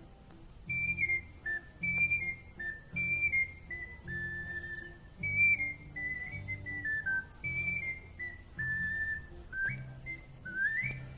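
Ocarina playing a melody of short stepped notes with quick upward slides between them, over a backing track with a low accompaniment.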